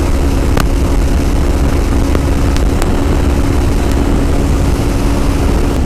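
Yamaha WR250R's single-cylinder engine running at a steady speed while riding, its note holding constant throughout.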